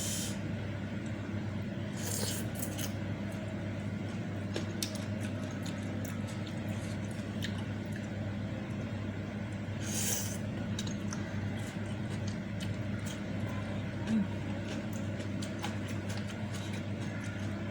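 Close-miked eating: wet chewing and squishing of meatballs and noodles with small clicks, and two short wet slurps, about two seconds in and again about ten seconds in. A steady low hum runs underneath.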